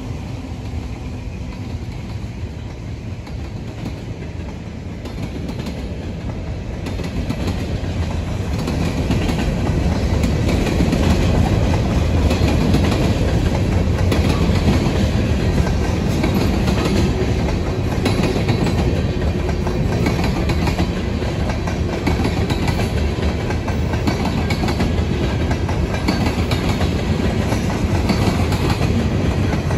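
Freight train cars (a tank car and covered hoppers) rolling past, their wheels clacking over the rail joints in a steady rumble that grows louder about eight seconds in.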